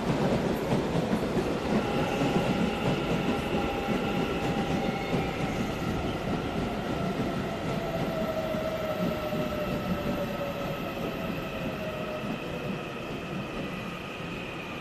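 Taiwan Railway electric train moving through the station: a heavy rumble of wheels on track with a steady motor whine of several tones, one sinking slightly in pitch, the whole sound slowly fading.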